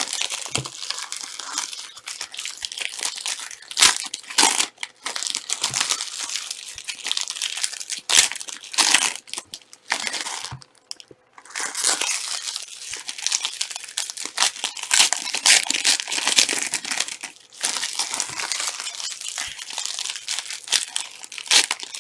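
Trading-card pack wrappers being crinkled and torn open by hand, a dense crackling that stops briefly about halfway through.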